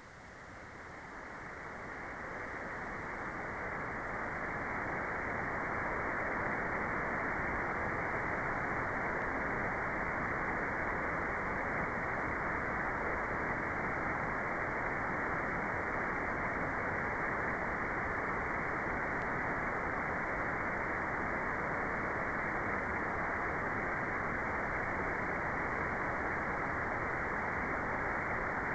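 Generated white noise played as a steady, dull hiss with the highest treble cut away, fading in over the first several seconds and then holding even.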